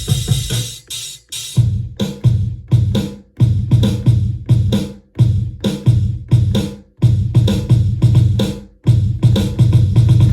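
Electronic drum beat from a Native Instruments Maschine drum kit, with heavy kick hits and bright hat and snare hits. The beat drops out briefly about a second in, then comes back in stop-start phrases and runs continuously again near the end.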